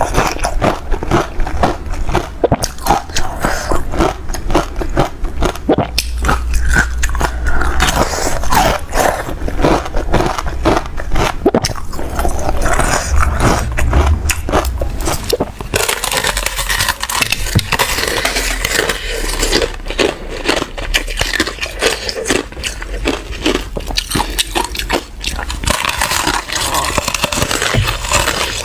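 A person biting and chewing crunchy ice close to the microphone: a dense run of crackling crunches.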